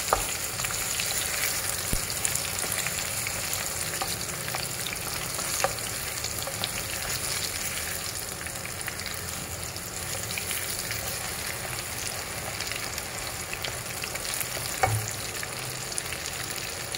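Batter-coated banana pieces sizzling steadily as they fry in hot oil in a nonstick wok, with a few light knocks of a wooden spatula turning them against the pan.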